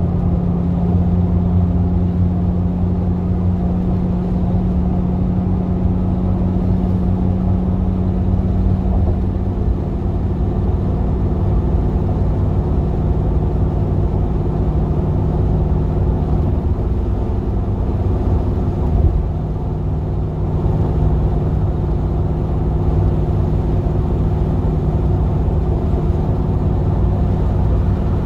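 V8 engine of a GMC Vandura / Chevy G20 van running steadily under way, with a deep rumble. The engine note dips slightly about a third of the way in and shifts again a little past the middle.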